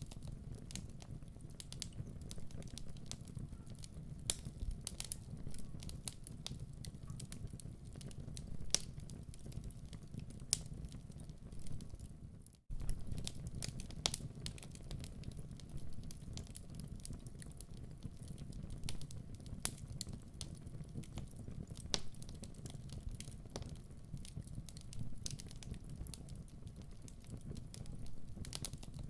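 Wood fire burning in a fireplace: a steady low rumble of flames with irregular sharp crackles and pops. The sound drops out for a split second about halfway through, then carries on.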